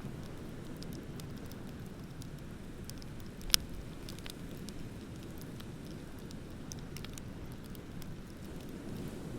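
Wood bonfire crackling with scattered sharp snaps and one loud pop about three and a half seconds in, over a steady low rush of ocean waves.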